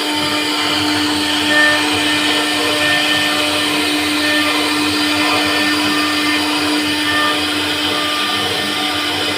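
CNC router spindle running steadily while carving wood, a continuous high whine over a hiss of cutting.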